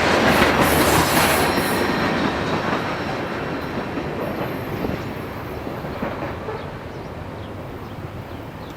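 Freight cars of a manifest train rolling past on the rails, growing steadily fainter as the train moves away.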